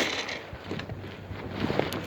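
Wind buffeting the microphone of a moving bicycle, with one sharp knock right at the start.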